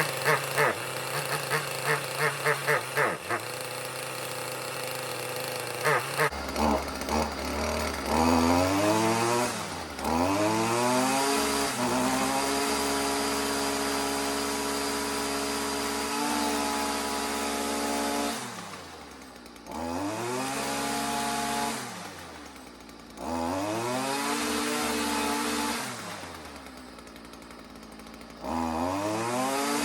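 Stihl FS55R string trimmer's two-stroke engine running while warming up. It pulses unevenly at first, then is revved up and held at high speed, dropped back to idle and revved again several times.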